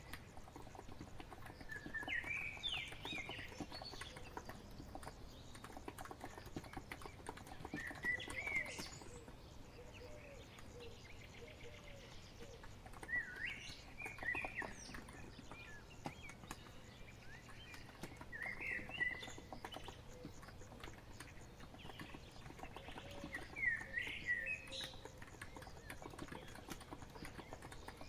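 Songbird phrases of a few quick chirps, repeating about every five seconds, over continuous soft typing on a COX Empress electrostatic capacitive (Topre-style) keyboard.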